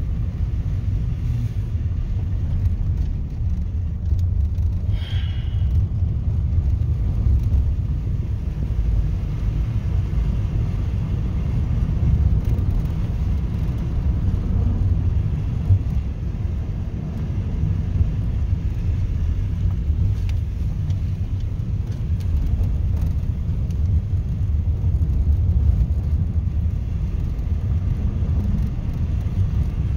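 Steady low rumble, with a brief higher-pitched sound about five seconds in.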